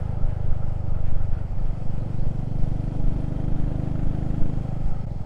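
Motorcycle engine running at a steady cruise, with wind rush on the microphone. An extra humming tone joins for about two seconds in the middle.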